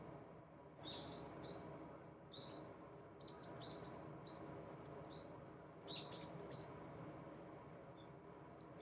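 Small songbirds chirping: short, high, rising notes in clusters of two or three, repeated every second or two, faint over a steady background hush.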